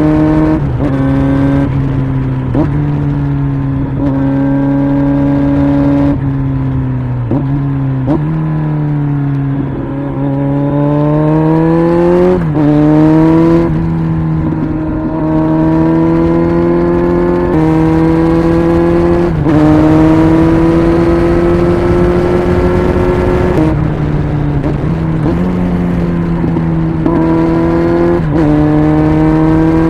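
Kawasaki Z900's 948 cc inline-four running through an aftermarket exhaust under hard riding. The revs climb, then dip briefly at each gear change or throttle lift, many times over.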